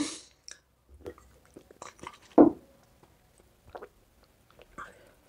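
Close-up chewing: soft mouth clicks and small crunches, with one louder crunch about two and a half seconds in.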